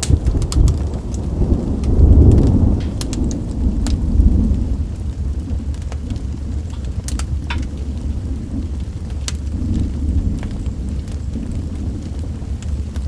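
Fire crackling, with scattered sharp pops over a deep rumble that swells twice in the first few seconds, mixed with rain.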